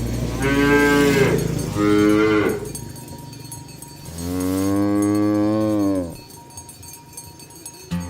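Cows mooing: two short moos close together, then a longer, drawn-out moo about four seconds in.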